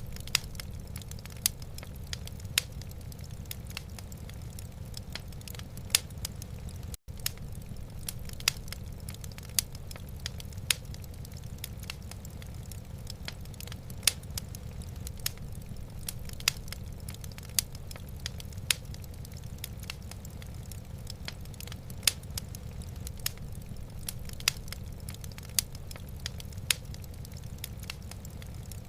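Wood fire crackling in a fireplace: frequent irregular sharp pops and snaps over a steady low rumble. The sound cuts out for an instant about seven seconds in.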